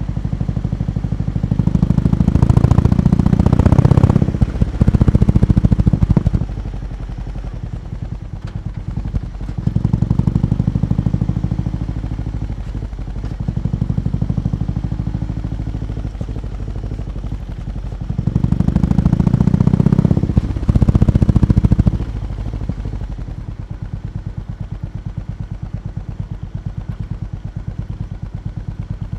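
BMW R18 B's big boxer-twin engine idling with a steady pulsing beat through its exhaust, revved with two quick throttle blips a couple of seconds in and two more about two-thirds of the way through, plus smaller blips in between.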